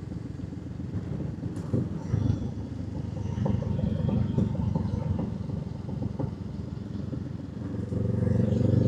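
Motorcycle engine running on the road, a steady low rumble. Near the end it gets louder and rises in pitch as the bike accelerates.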